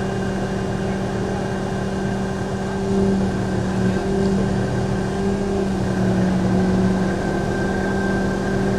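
A crane's diesel engine running steadily with a constant hum. It gets a little louder from about three seconds in.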